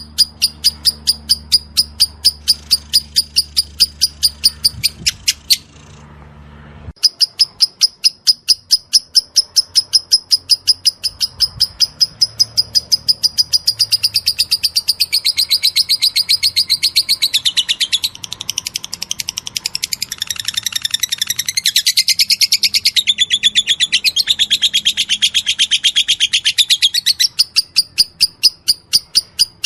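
Lovebird ngekek: a long, fast, even string of sharp high chirps, about three to four a second, with a short break about six seconds in. About halfway through, a second, wavering lovebird chatter joins over it and drops out again near the end.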